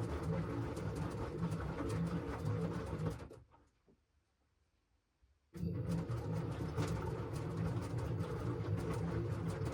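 LG washing machine running a wash cycle: a steady churning hum that dies away about three seconds in, stops for about two seconds, then starts again abruptly.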